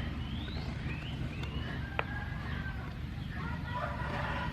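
Animal calls over a steady low rumble: short rising chirps in the first couple of seconds, a sharp click about two seconds in, and a held call with several tones near the end.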